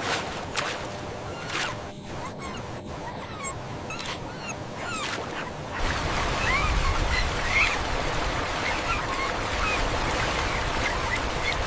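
Floodwater rushing, with short high whimpering cries from puppies over it. The water noise gets louder about six seconds in, and the cries carry on above it.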